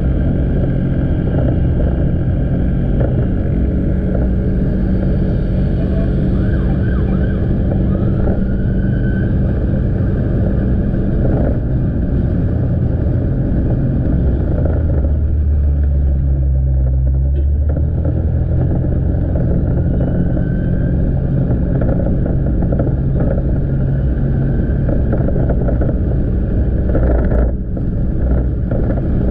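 Motorcycle engine running under way with road noise. About halfway through the engine note drops lower for a few seconds, then picks back up.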